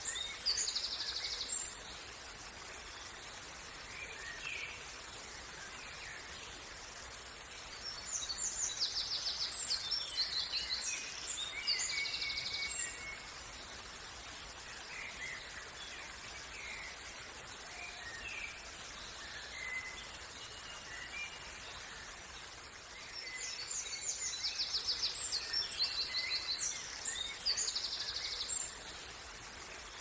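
Songbirds singing in three bouts of high, fast trills and chirps, over a steady even hiss of outdoor background noise.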